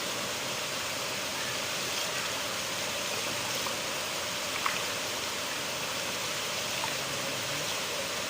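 River water flowing in a steady rush, with a few small splashes and drips standing out, the most noticeable about halfway through.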